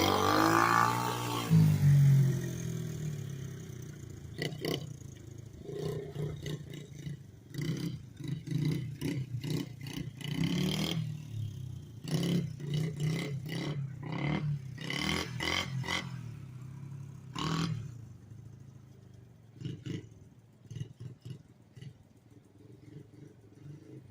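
A small pit-bike engine on a home-built three-wheeler, dropping off revs and then running at changing throttle, with repeated blips of revving and scattered knocks and rattles. For the last several seconds it runs quieter at low revs.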